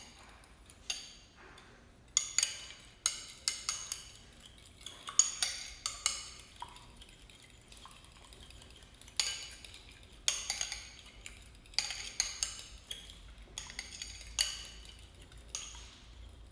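Kitchen utensils knocking and clinking against dishes in irregular sharp strikes, some ringing briefly, with a quieter stretch in the middle.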